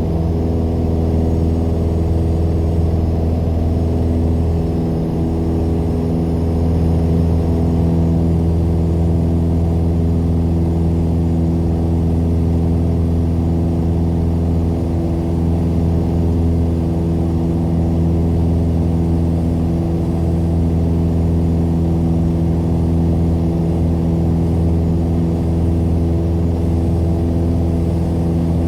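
Piper PA-28's single piston engine running at steady power, a low, even drone with its pitch holding constant.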